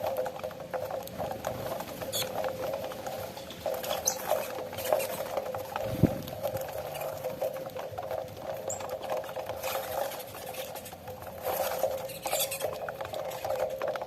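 A flock of saffron finches feeding on cracked corn: a constant light patter of pecking and scrabbling, with a few short high sounds scattered through it and a single thump about six seconds in.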